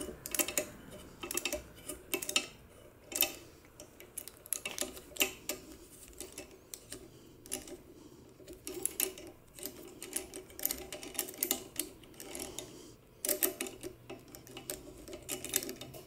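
Thread tap being worked back and forth by hand through a seized stud hole in an exhaust manifold, giving irregular metallic clicks and light scraping as rust and metal pieces break out and fresh threads are cut.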